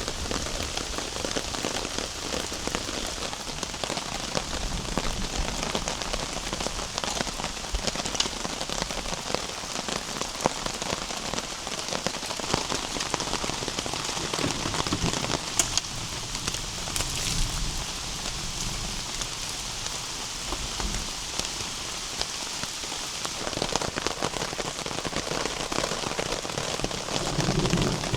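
Heavy rain falling steadily, with many separate drops ticking through the hiss.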